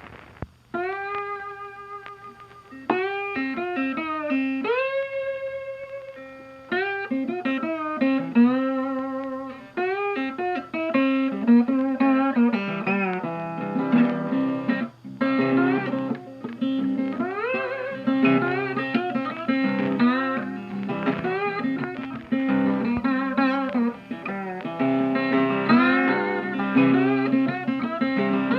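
Guitar music with notes that bend and slide in pitch, sparse at first and filling out with more notes from about seven seconds in.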